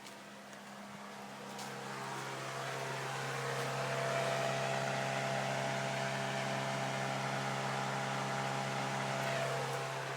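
Steady electric whir and hum from the Honda Civic with the ignition switched on before cranking, while the fuel system primes. It swells over the first few seconds, holds steady, and fades near the end.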